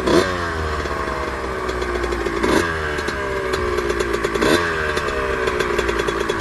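Suzuki RM125's single-cylinder 125 cc two-stroke engine running while the bike is ridden. The revs jump sharply three times, near the start, about 2.5 s in and about 4.5 s in, and fall away slowly after each jump.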